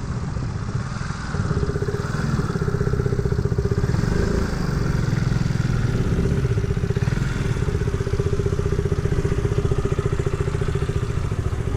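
Motor scooter engine running steadily while riding, louder from about a second in.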